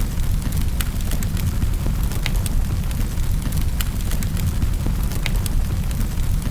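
Fireplace fire crackling: sharp pops and snaps scattered irregularly, several a second, over a steady low rumble of the burning fire.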